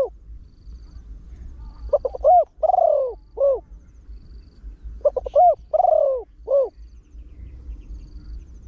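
Spotted dove cooing in a deep voice: two phrases of several arching coos, about three seconds apart, with faint high chirps repeating behind.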